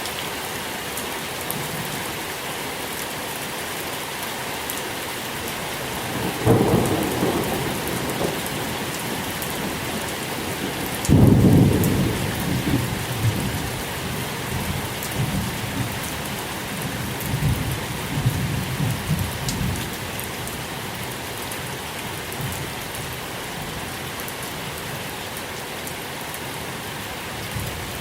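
Steady rain falling, with thunder. A rumble comes about six seconds in, then a louder, sudden peal about eleven seconds in that rolls on unevenly and dies away by about twenty seconds.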